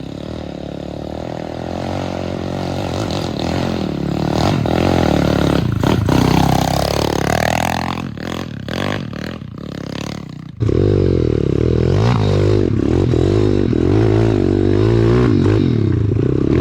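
Pit bike single-cylinder four-stroke engines running under throttle, the revs dipping and climbing again partway through. About ten and a half seconds in, the sound jumps suddenly to a louder, steadier engine note.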